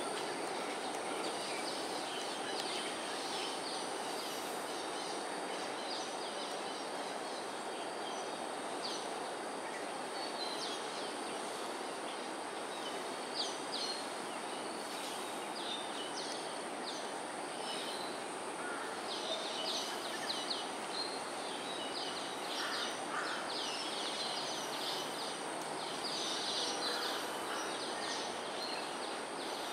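Birds giving many short, high chirping calls, sparse at first and coming thick and fast in the second half, over a steady background hum of environmental noise and a thin high whine.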